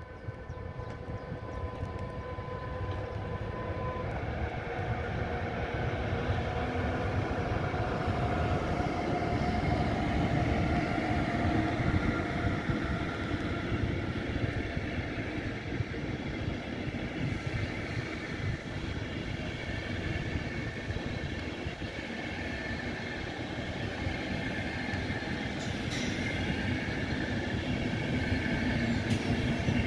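Deutsche Bahn Intercity train, hauled by a red electric locomotive, running through the station: a long continuous rumble of wheels on rail as the coaches pass, growing louder over the first ten seconds or so. A steady whine stops about four seconds in, and there is a single sharp click near the end.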